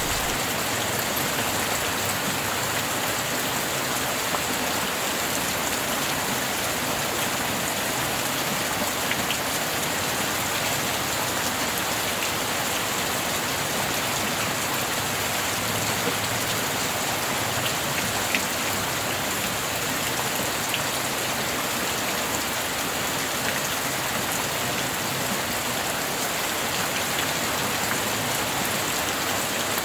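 Steady rain falling: an even hiss, with a few faint single drop ticks.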